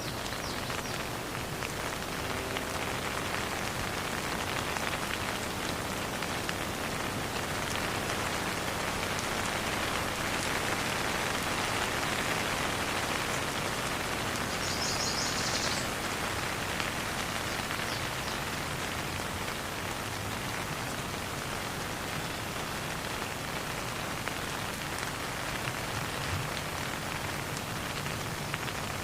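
Steady rain falling: a dense, even patter of drops. About halfway through, a brief high chirping sounds for a second or so.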